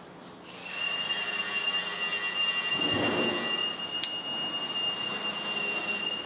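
Electric drill boring through the steel side rail of a 1950 Chevy truck frame. The bit gives one steady high squeal over a noisy whir, starting under a second in.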